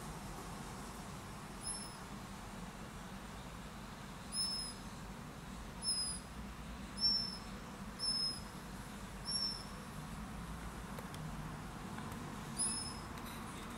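A small bird calling outside, giving about seven short, high-pitched chirps spaced a second or two apart over a steady background hiss.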